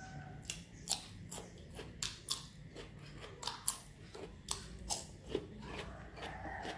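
Biting into and chewing a slice of raw cucumber: crisp, irregular crunches, roughly two a second.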